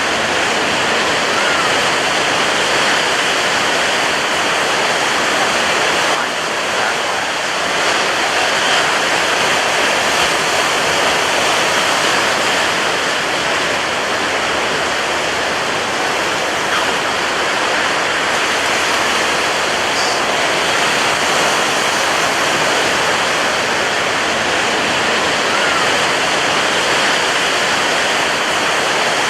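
Ocean surf breaking on a beach: a loud, dense, even wash of water noise with little rise and fall and no single crash standing out.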